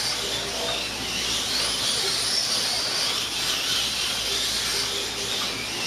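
Several 1/24 scale slot cars racing around the track, the high whine of their small electric motors rising and falling as they speed up and slow down.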